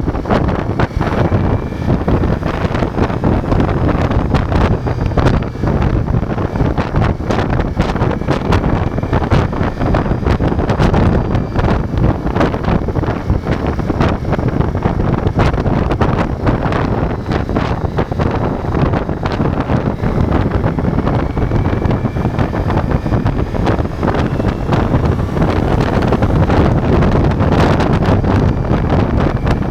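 Heavy wind buffeting on an action camera's microphone while riding a Ducati Multistrada V4, with the bike's V4 engine running under the wind noise.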